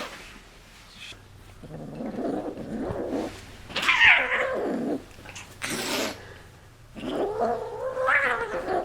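Domestic cat calling in several drawn-out cries: a low one about two seconds in, one that falls steeply in pitch about four seconds in, and a longer one starting about seven seconds in, with a short sharp noisy burst between them.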